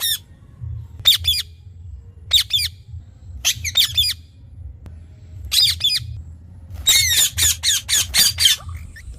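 Green parrot squawking in short, harsh, repeated calls, in clusters about every second or so, with a quicker run of several squawks near the end.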